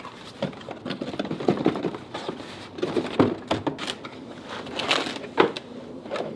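Cardboard box and packaging handled during unboxing: irregular rustling and scraping with light knocks and clicks.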